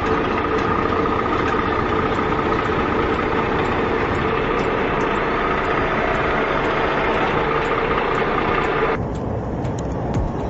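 A heavy truck engine runs steadily with a constant hum. About nine seconds in, the sound cuts abruptly to a quieter, thinner background.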